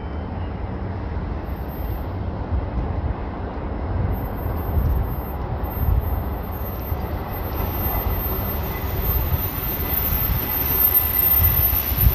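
JR 313 series electric train approaching along a curve into the station: rumble and rail noise growing louder as it nears, with a thin high whine building from about four seconds in.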